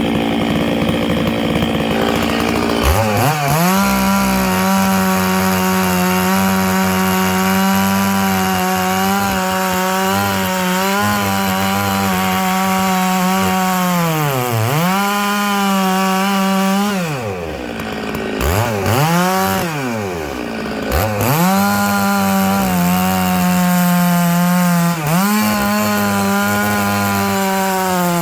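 Stihl MS 660 two-stroke chainsaw ripping dry larch rounds lengthwise for firewood. The engine pitch drops as the chain bites about three seconds in and holds steady under load. It falls away and picks up again several times in the middle before settling back into the cut.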